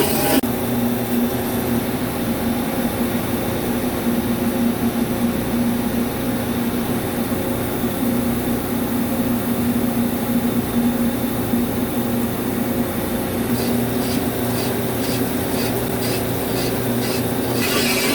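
CNC vertical lathe running steadily with a humming drone while turning a steel subway wheel. Near the end, light ticks come at about two a second.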